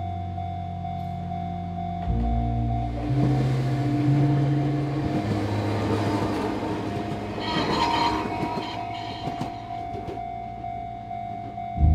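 An Enoden (Enoshima Electric Railway) train passing over background music. Its noise builds from about three seconds in, peaks about eight seconds in with a brief high ringing, then fades.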